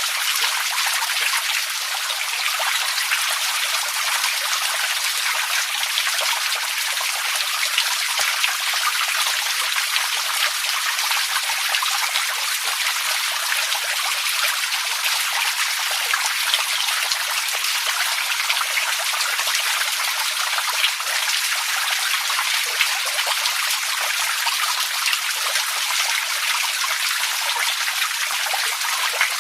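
Running water trickling and splashing steadily, without a break.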